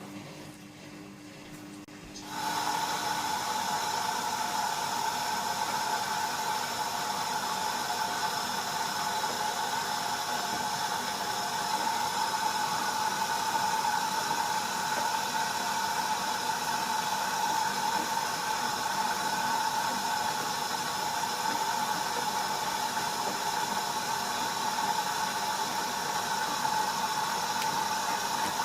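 Bauknecht GreenIntelligence Super Eco 6413 washing machine taking in water: about two seconds in, the inlet valve opens and a steady hiss of rushing water starts, with a whistling tone running through it.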